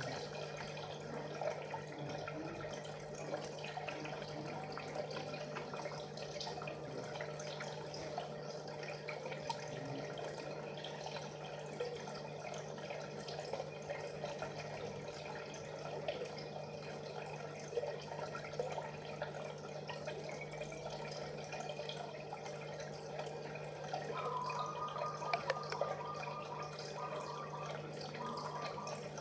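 Water trickling and dripping over a steady low hum. Near the end a broken mid-pitched tone comes in short stretches.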